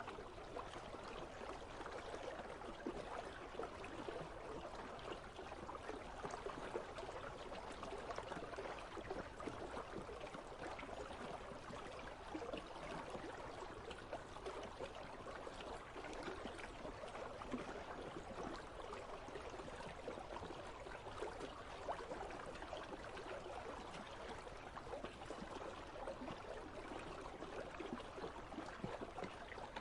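Icy river flowing: a steady, fairly faint rush and babble of running water, even throughout.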